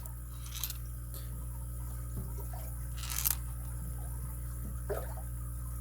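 A camera shutter sounds briefly about three seconds in, with a fainter one near the start, over a steady low electrical hum and small handling ticks.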